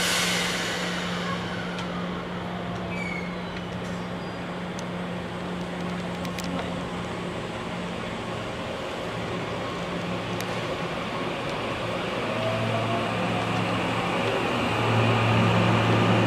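JR East E001 series "TRAIN SUITE Shiki-shima" pulling slowly out of the platform: a steady low hum from the train with a faint rising motor whine from about 12 seconds in. The sound grows louder near the end as the cars start sliding past.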